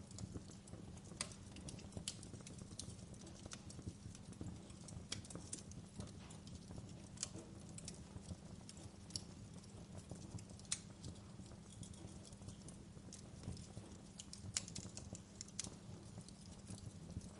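Wood fire crackling: irregular sharp pops and snaps, several a second, over a steady low rumble, blended with a soft even hiss of gentle rain.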